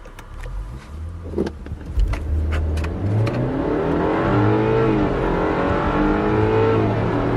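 A turbocharged four-cylinder car engine accelerating hard from a standstill: its pitch climbs steadily, dropping at upshifts about five and seven seconds in, with a few sharp clicks in the first three seconds.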